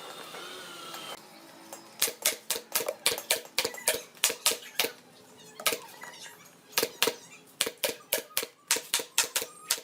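Rapid, irregular sharp tapping, about five knocks a second, starting about two seconds in, with a short pause around the middle before it resumes.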